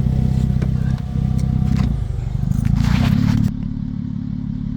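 Vehicle engine running with a broken exhaust, giving a loud, low, rapidly pulsing exhaust note. A burst of rattling noise sits over it about three seconds in, and the sound drops somewhat shortly after.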